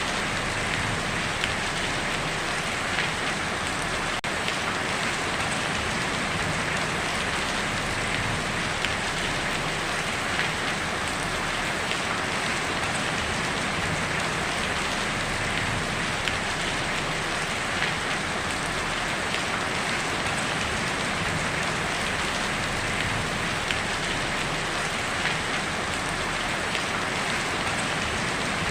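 Heavy rain drumming steadily on a tin roof, a dense even patter with occasional slightly louder drop hits.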